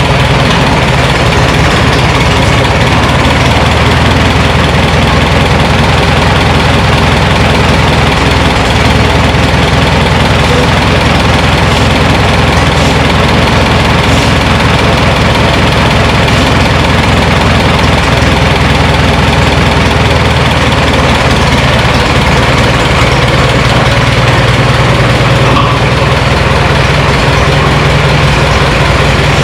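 Minneapolis-Moline tractor engine running steadily and loud. Its low note grows a little stronger near the end.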